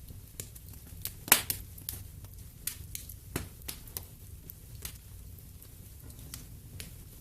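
Wood fire crackling in a fireplace: irregular sharp pops and snaps over a low steady rumble, the loudest pop about a second in.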